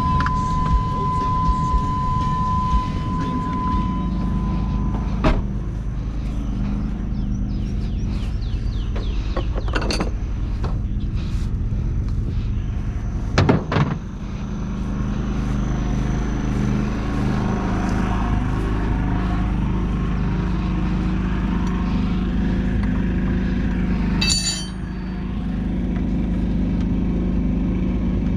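John Deere 450C bulldozer's diesel engine running steadily, with a few sharp metallic knocks and clanks over it.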